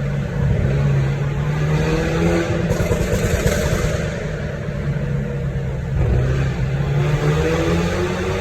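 Exhaust note of a VinFast Lux A2.0's 2.0-litre turbocharged four-cylinder through a catless aftermarket XEX sport exhaust, the engine running steadily with a deep drone whose pitch rises and falls a little, as with light throttle.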